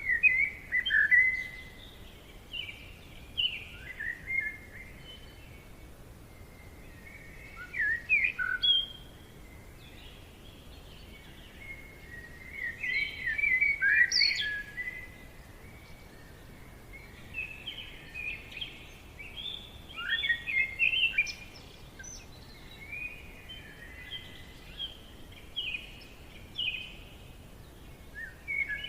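A songbird singing in a forest: quick warbled phrases of chirping notes, repeated with short pauses every few seconds, over a faint steady background hiss.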